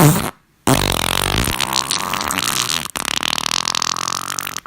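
Farting: a short loud burst, then a long drawn-out buzzy fart that breaks briefly about three seconds in.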